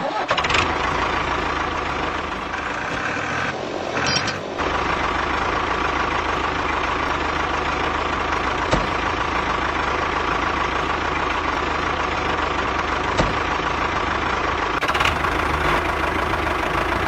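A truck engine running steadily, with a brief change in its sound about four seconds in.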